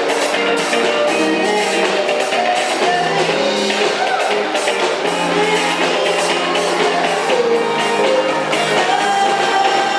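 A live band playing a pop-rock song with a steady beat, a voice singing over the instruments.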